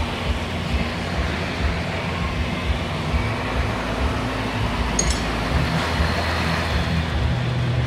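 Mercedes-Benz CL600's twin-turbo V12 idling steadily, driving the Active Body Control hydraulic pump while the rodeo test cycles the suspension to purge air from the system. A brief faint tick sounds about five seconds in.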